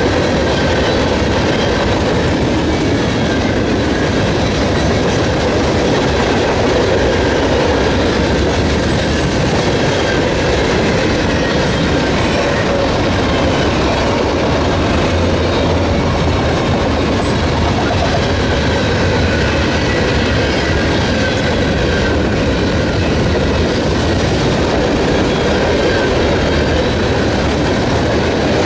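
Freight train cars rolling past on the rails: a steady, loud clatter of steel wheels over the track that does not let up.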